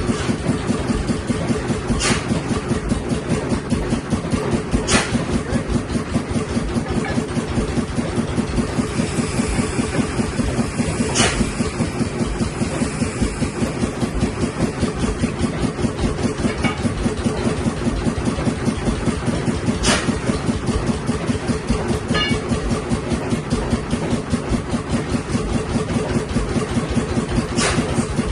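A stationary engine running steadily with a rapid, even beat. A few sharp clicks stand out at irregular intervals.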